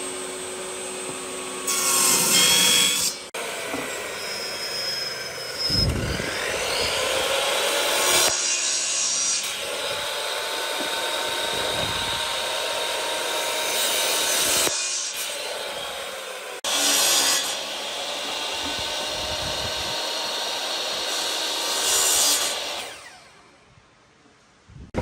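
Electric power tools working wood, in several short joined clips: a steady motor whine with louder stretches of cutting noise and pitch glides as the tool runs up or takes load. It fades out near the end.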